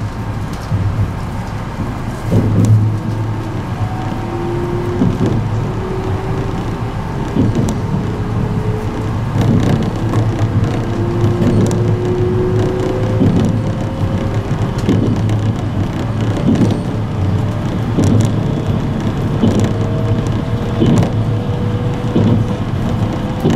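Train running and speeding up, heard from inside the carriage of an E653-series electric express: a steady low rumble of wheels on rail, knocks over rail joints about every second and a half, and the electric motors' whine rising slowly in pitch as it speeds up.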